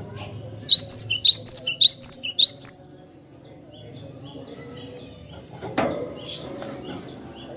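Cinereous tit (glatik batu) singing: a quick run of about nine loud, clear paired chirps starting about a second in and lasting two seconds, then fainter repeated notes. A short thump comes near the six-second mark.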